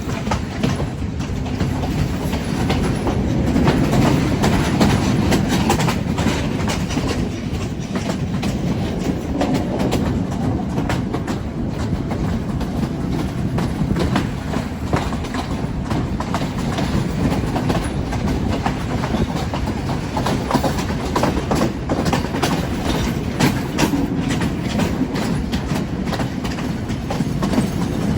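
Passenger train running along the track: a steady low rumble with irregular clacks of the wheels passing over rail joints.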